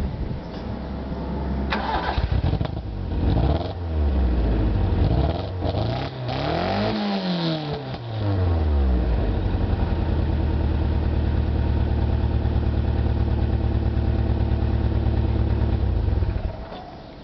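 Toyota 4A-GE 20-valve Silvertop four-cylinder engine running with a misfire. It is revved up and down several times, the highest rev about seven seconds in, then settles to a steady idle. It goes much quieter near the end.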